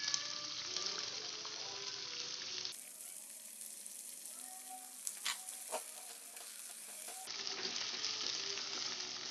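Long beans and aromatics sizzling as they stir-fry in a nonstick wok, with a plastic spatula stirring through them. The sizzle is quieter for a few seconds in the middle, where there are two sharp clicks.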